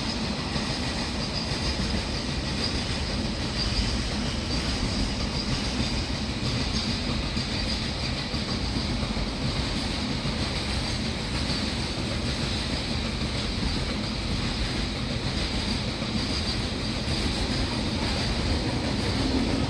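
Container freight wagons rolling past on the track: a steady rumble of steel wheels on rail with a high ringing tone held throughout.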